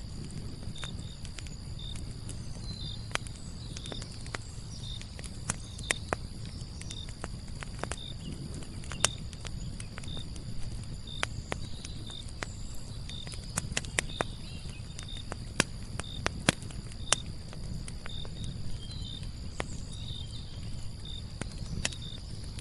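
Wood fire burning in a fireplace, with a low rumble of flames and irregular sharp crackles and pops, a few of them louder. A faint, high chirp repeats at a steady pace throughout, like a cricket.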